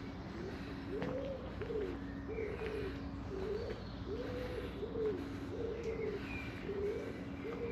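A pigeon cooing, a long run of short low coos about two a second, with faint songbird chirps behind it.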